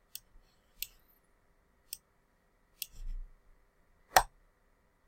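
Sharp single clicks of computer keys being pressed, about five of them spaced roughly a second apart, the loudest near the end; a soft low rumble comes around three seconds in.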